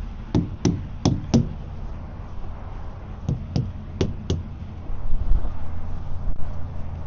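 A mallet thumping the tractor-trailer's tires to check them for low air pressure: two quick sets of four knocks a couple of seconds apart, over a steady low hum.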